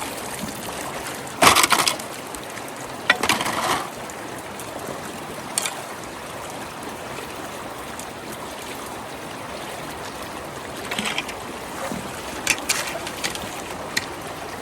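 Water running steadily through a clogged culvert, with two louder splashes about a second and a half and three seconds in, and a few lighter splashes later.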